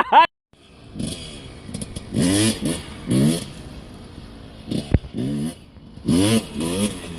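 Dirt bike engine revved in short bursts, each rising then falling in pitch, with one sharp knock about five seconds in.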